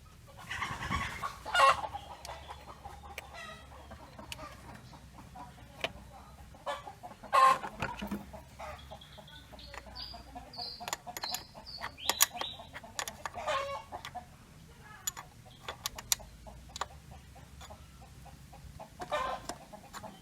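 Chickens clucking in short, loud bouts about every six seconds, with frequent light metallic clicks and taps from hand tools in between.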